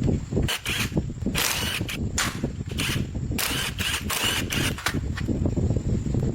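A motor running with a steady, rough rumble, with repeated short hissing bursts about half a second long over it.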